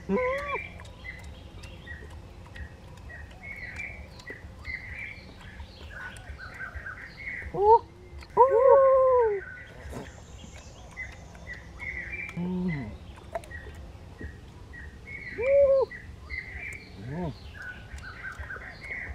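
Small birds chirping over and over in a steady chorus, broken a few times by louder, longer calls from another animal or voice that rise and fall in pitch. The longest of these lasts about a second, about eight seconds in. A low steady rumble runs underneath.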